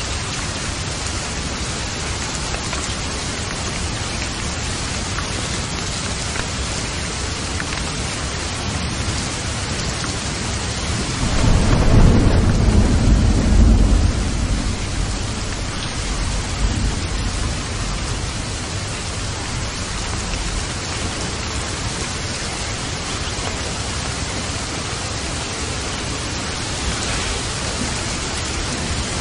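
Steady heavy rain falling. About 11 seconds in, a deep roll of thunder rumbles for several seconds and then fades back under the rain.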